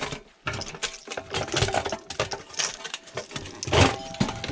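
Irregular clicking, clinking and knocking of metal parts being handled while a coffee machine is dismantled for scrap, with one louder knock near the end.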